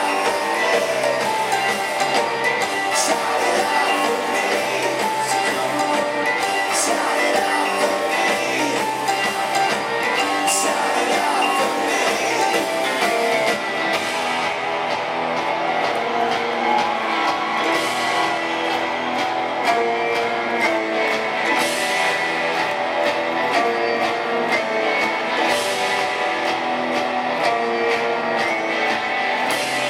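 Rock band playing live, with strummed guitars and a singing voice over a steady, loud full-band sound.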